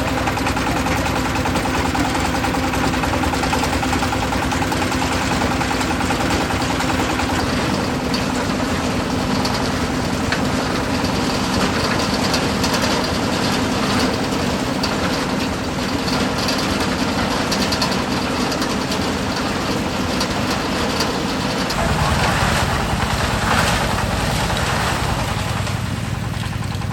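An engine running steadily, its sound changing about 22 seconds in.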